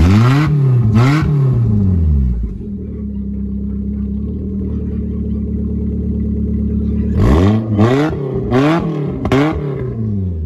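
Four-cylinder engine of a stock compact demolition derby car revved twice, settling to a steady idle, then blipped four times in quick succession near the end before dropping back to idle. It still runs fine after the hard hits the car took in three derbies.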